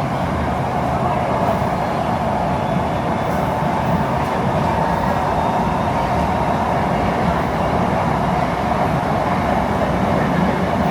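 Steady running noise of a metro train heard from inside the carriage while it travels between stations, a constant rumble with a faint steady whine.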